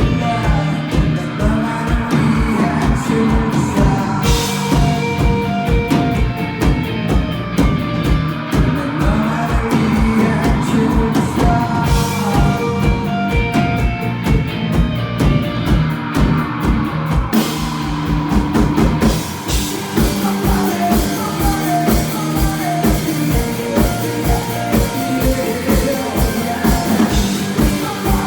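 Rock band playing live: a drum kit keeps a steady kick-drum beat under guitars while a vocalist sings, with cymbal crashes marking changes in the song a few times.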